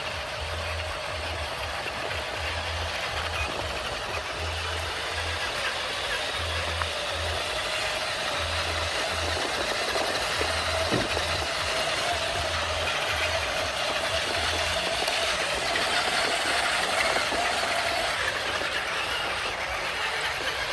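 Radio-controlled toy construction vehicles' small electric motors and gearboxes whirring steadily, with a low throb that pulses about once a second.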